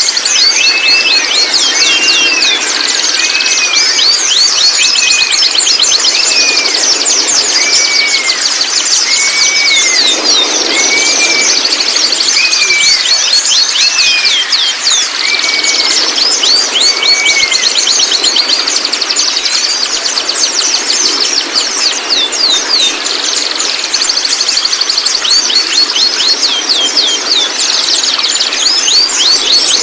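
Young white-rumped shamas' babbling early song: a dense chatter of rapid high, downward-sweeping notes, with a short arched whistle repeated about once a second through the first half.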